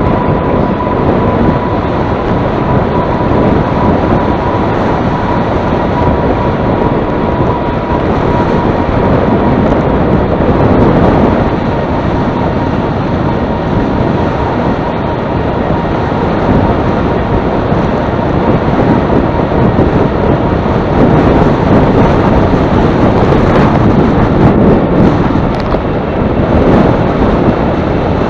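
Loud wind buffeting the microphone while riding into a headwind, a steady rushing roar with uneven gusts. A faint steady high whine fades out over the first several seconds.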